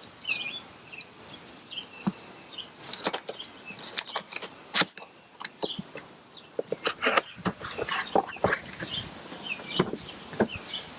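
A cardboard box being opened and its packaging handled, with irregular clicks, scrapes and rustles that get busier in the second half. Small birds chirp in the background.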